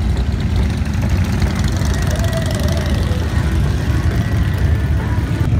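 Motorcycle engine running steadily with a fast, even low pulse.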